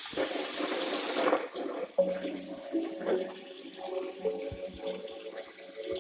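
A novelty phone ringtone playing through a phone speaker. It opens with a rush of running-water noise, then a simple melody of short stepping notes comes in about two seconds in while the water noise carries on underneath.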